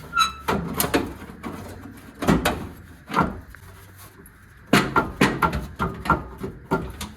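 Irregular knocks and clanks of a cut-out car body panel being banged and pried loose, with a quicker run of about four or five strikes a second starting near the five-second mark.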